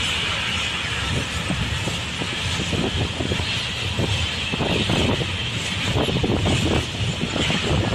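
Freight train going by: a steady rumble with a hissing rail noise, continuing without a break.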